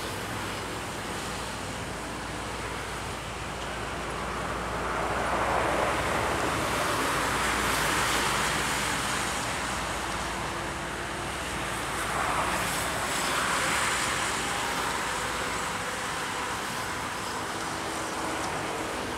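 Diesel locomotive hauling a passenger train as it approaches along the track: a continuous rushing run of engine and wheel-on-rail noise that swells louder twice.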